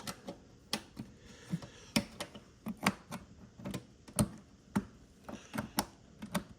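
Plastic parts of a Hoover Celebrity QS canister vacuum clicking and knocking as they are worked by hand, trying to get a part to fit and latch down. The clicks are sharp and irregular, about one or two a second.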